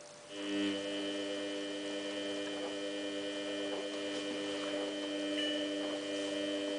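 Samsung WF8804RPA washing machine giving a steady electrical hum that starts just after the beginning and cuts off suddenly at the end, with no sound of water flowing in.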